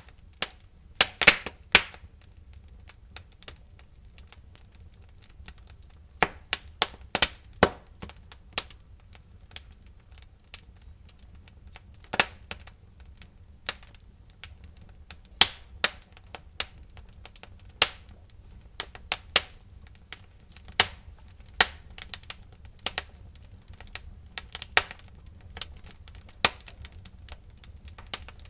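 Wood fire crackling, with irregular sharp pops and snaps one to a few a second and a louder cluster about a second in, over a steady low rumble.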